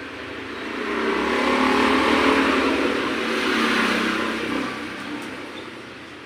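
A motor vehicle engine that swells up and fades away over about four seconds, its pitch staying fairly steady.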